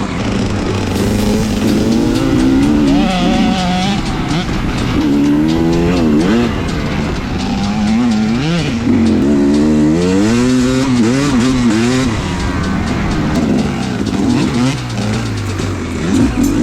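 Dirt bike engine being ridden hard off-road, its revs rising and falling again and again through the gears.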